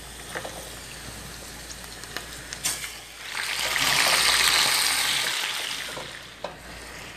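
Raw chicken pieces frying in hot oil in a stainless steel pan. A few light clicks come first, then about three seconds in a loud sizzle swells up as the meat meets the oil and is stirred. The sizzle fades over the next few seconds.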